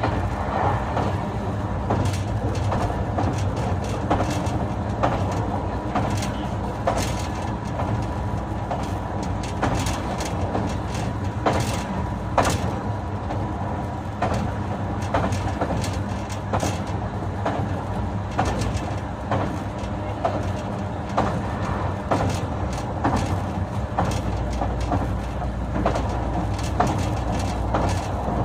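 Running sound aboard a JR West 221 series electric train's motor car (MoHa 221-66): a steady rumble of wheels and traction motors, with frequent irregular clicks and knocks from the wheels and rails.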